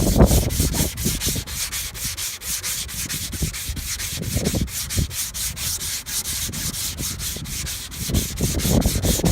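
Hand sanding of a car's painted body panel, quick even back-and-forth strokes at about five a second, taking the shine off the paint so primer will stick. Wind rumbles on the microphone underneath.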